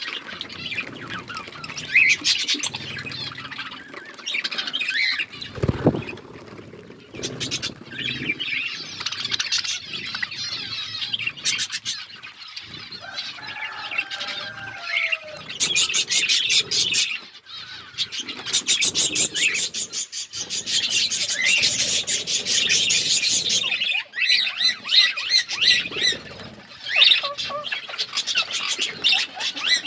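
A flock of budgerigars chattering and warbling continuously, with long runs of rapid clicking chirps.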